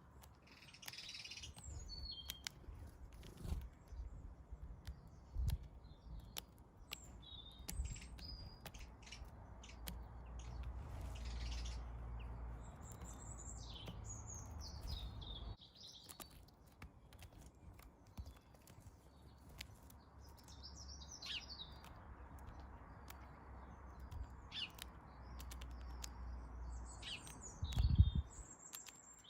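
Garden birds chirping in short, scattered calls over a steady low rumble, with many faint clicks and one loud thump about a second before the end.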